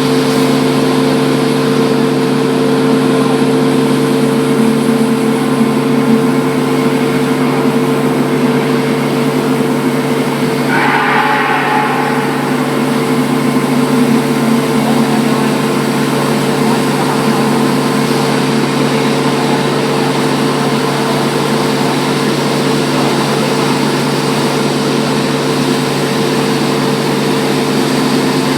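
Wide belt sander running steadily: a loud, constant machine hum with several steady tones under an even rushing noise. A short higher-pitched sound rises over it about eleven seconds in.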